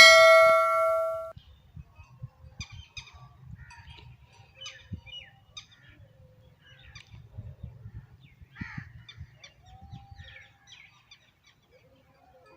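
A bell-like ding rings out and fades within about a second and a half, followed by faint, scattered short high chirps and squeaks.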